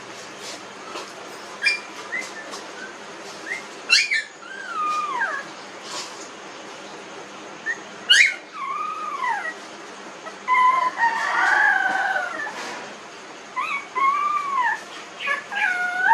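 Young puppies, about 19 days old, whimpering and crying in a string of high, rising-then-falling squeals. Several cries overlap around the middle.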